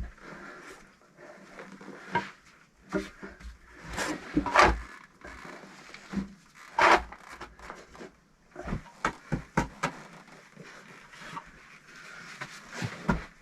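Bricklaying work sounds: irregular knocks and scrapes as fired bricks are handled, set into wet clay and tapped into place. The loudest knocks come about four to five seconds in and again about seven seconds in, with a run of quick knocks later.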